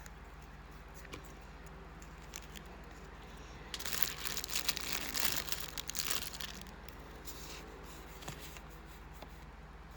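Package wrapping crinkling and tearing as a parcel is opened, a dense crackly rustle from about four seconds in to about six and a half seconds, with a few faint rustles before and after over a low steady hum.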